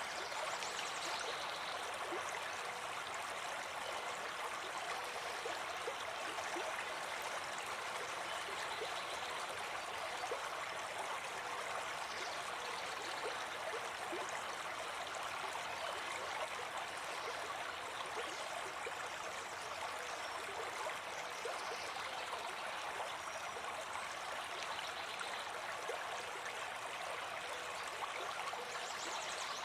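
River water flowing and burbling steadily over stones.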